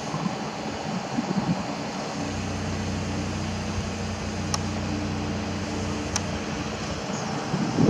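A steady low mechanical hum, with two faint clicks partway through.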